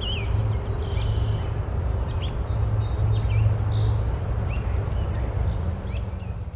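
Small birds chirping in short, scattered calls over a steady low rumble of outdoor ambience, fading near the end.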